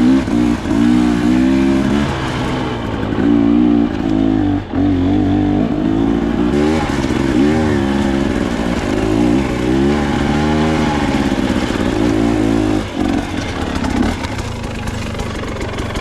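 Dirt bike engine running under constantly changing throttle, its pitch rising and falling again and again as the rider works along rough singletrack.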